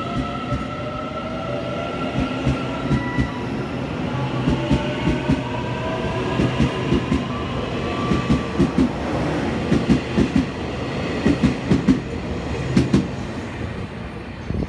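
Taiwan Railways electric multiple-unit commuter train pulling out of the station. The traction motors' whine rises in pitch as it accelerates, and the wheels click over rail joints in repeated pairs as each carriage passes. The sound drops away near the end as the last car leaves.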